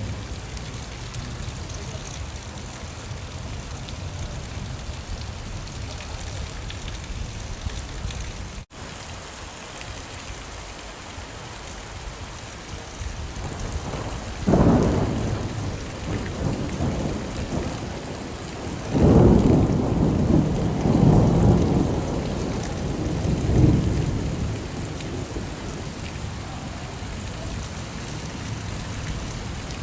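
Steady heavy rain, with two rolls of thunder, the first about fourteen seconds in and a longer one a few seconds later. The rain cuts out for an instant about nine seconds in.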